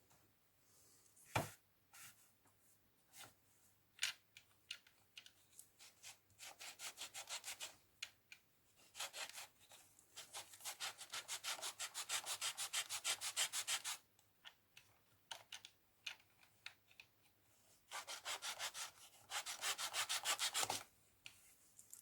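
Small plastic LEGO part rubbed back and forth on an abrasive surface in quick, even strokes, about five a second, in three bouts, the middle one the longest. Scattered single clicks and taps come between the bouts.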